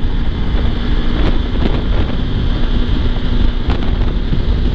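Wind rushing over the rider's microphone with a motorcycle engine running steadily underneath, while riding on the highway.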